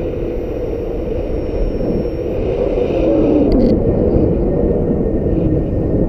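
Strong gusting wind buffeting the microphone in a heavy low rumble, with a wavering howl that slides up and down in pitch.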